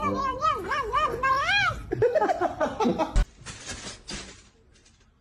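A cat meowing in a run of drawn-out calls that rise and fall in pitch. A single thump comes about three seconds in, followed by a few faint rustles.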